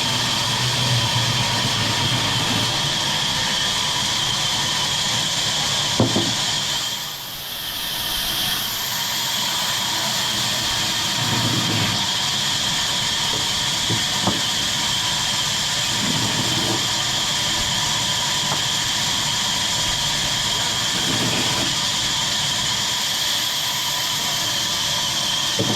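Engine of a chainsaw or similar tree-cutting machine running steadily, with a short drop in loudness about seven seconds in.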